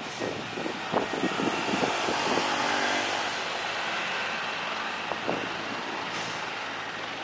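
Aircraft engine noise, a steady rush that swells a few seconds in and slowly eases, with gusty wind buffeting the microphone in the first couple of seconds.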